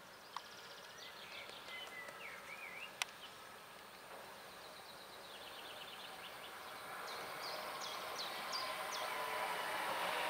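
Birds chirping and trilling over the running noise of an approaching DB Class 423 S-Bahn electric train, which grows steadily louder through the second half.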